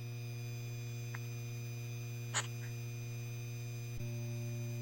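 Steady electric hum of a game's simulated ceiling-fan motor running on medium speed: a low drone with fixed higher tones above it. A short tick comes about two and a half seconds in.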